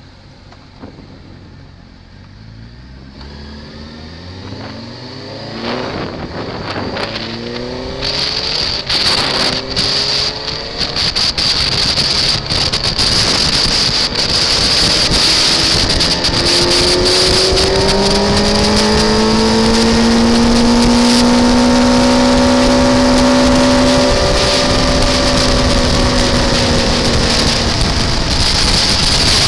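A car engine accelerating through several gears, its note rising and dropping back at each change, then holding high revs. Heavy wind and road noise builds with speed and becomes the loudest sound about eight seconds in.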